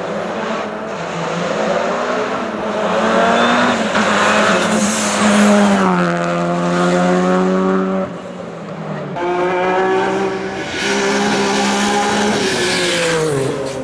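Hill-climb race car engine at full throttle, its pitch climbing and dropping back as it changes gear. It falls away sharply about eight seconds in, then picks up and climbs again before easing off near the end.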